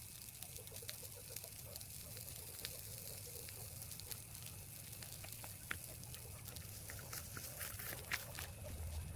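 Outdoor rural ambience: scattered sharp clicks and crackles over a steady hiss, the loudest crack about eight seconds in.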